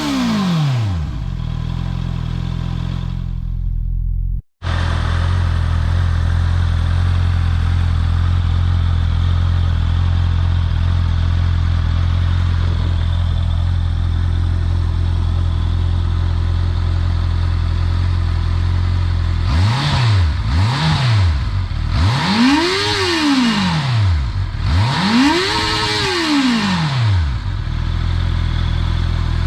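Honda CB650R's inline-four engine on its stock exhaust, dropping from a rev back to a steady idle and idling for a long stretch. Past the middle it is blipped twice quickly, then revved twice, each rev rising and falling back to idle.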